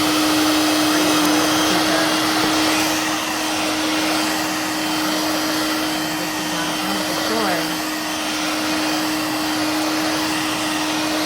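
Dirt Devil Vibe corded stick vacuum running steadily: one unwavering motor tone over loud rushing airflow.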